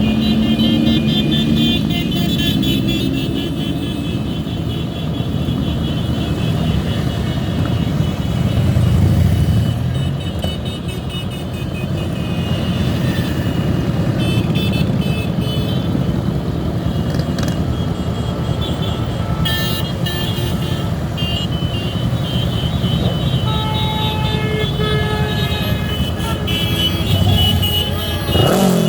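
Engines of a large mass of motorcycles and cars running in procession, with vehicle horns honking on and off.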